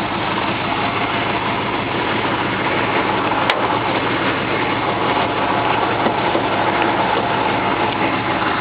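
Truck engine running steadily, with a single brief click about three and a half seconds in.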